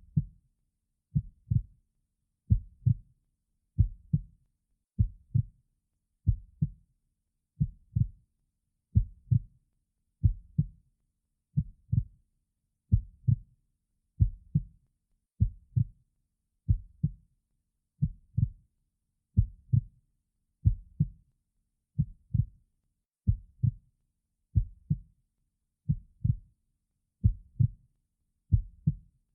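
Heartbeat-like sound: low double thumps in a slow, even rhythm, about one pair every second and a quarter.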